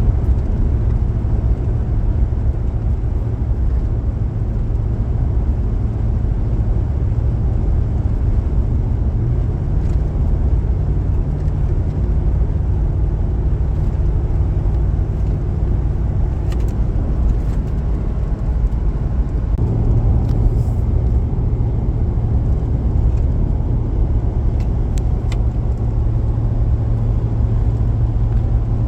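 Pickup truck driving at highway speed while towing a trailer: a steady low drone of engine and road noise. Its tone shifts slightly about ten seconds in and again near twenty seconds.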